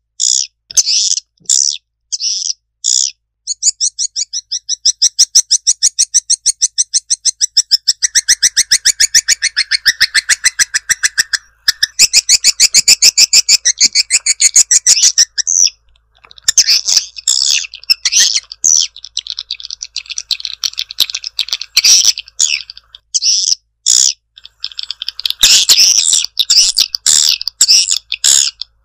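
Swiftlet lure call: high, rapid chirping, with long fast twittering trills through the middle and shorter bursts of chirps toward the end. This is the call sound played to draw swiftlets into a nesting house.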